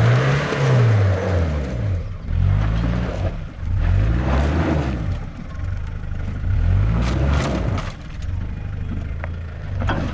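Off-road 4WD engine revving in repeated surges, its pitch climbing and dropping about four times, as the vehicle is driven hard through a muddy, flooded track obstacle.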